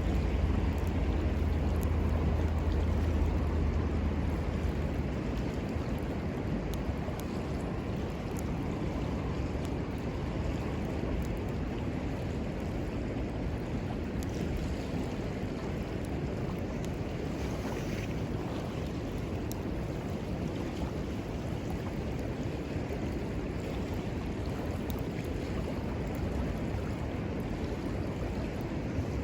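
Steady rush of flowing river water, with a low rumble for the first few seconds and a few faint sharp crackles from the campfire.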